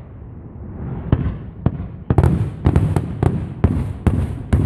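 Aerial fireworks going off: a few scattered sharp cracks, then from about two seconds in a rapid string of loud bangs and crackles over deep booms.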